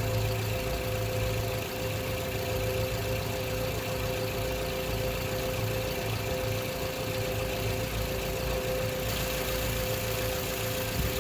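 2012 Toyota RAV4 engine idling steadily, left running to warm the transmission for a fluid-level check.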